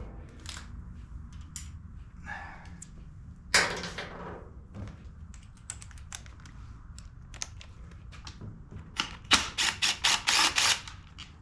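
Hand tools and socket adapters clicking and clattering during work, with one louder knock about three and a half seconds in and a quick run of about eight sharp clicks near the end.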